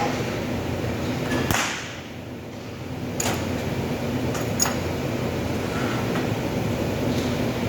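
Steady machine hum with a low tone, broken by a few sharp clicks or taps, one of them about a second and a half in, others around three and four and a half seconds in.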